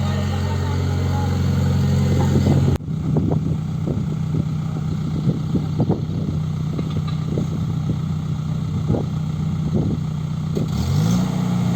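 Diesel engine of a Tata Hitachi Zaxis 120 excavator running steadily, with irregular knocks from about three seconds in and the engine revving up near the end.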